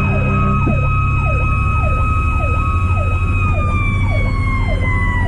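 Fire engine sirens heard from inside the cab. An electronic siren cycles about one and a half times a second, each cycle dropping in pitch and sweeping back up. A mechanical Q siren holds a steady scream, then starts winding down in pitch about three and a half seconds in. An air horn cuts off under a second in, over the truck's low engine rumble.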